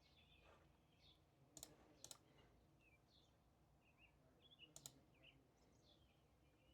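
Faint bird chirps going on in the background, with three sharp clicks, about one and a half, two and five seconds in.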